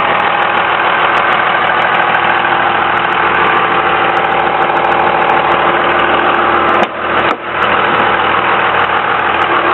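Cummins 24-valve H.O. turbo diesel in a 2001 Dodge Ram 2500 idling steadily, with a brief dip about seven seconds in.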